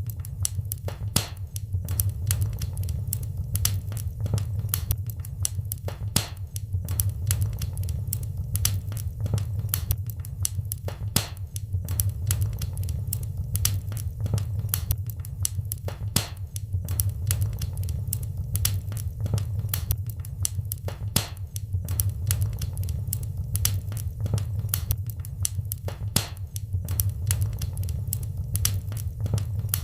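Wood fire crackling in a fireplace: many sharp, irregular pops and snaps over a steady low rumble of the burning fire.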